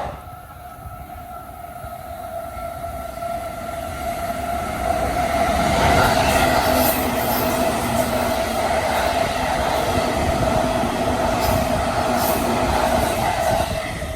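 Electric train approaching and running past at speed, growing louder over the first six seconds and then staying loud, with a steady high-pitched whine over the rumble of wheels on rails.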